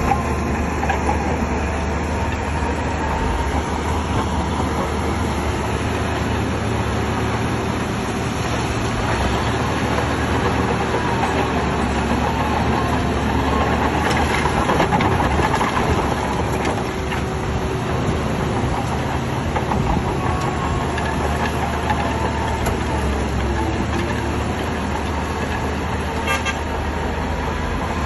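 Shantui crawler bulldozer's diesel engine running steadily as the machine works, with a faint wavering whine over the low engine hum.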